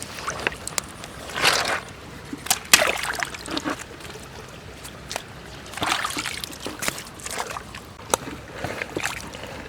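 Shallow water splashing and sloshing in several separate bursts, with scattered sharp clicks and knocks in between.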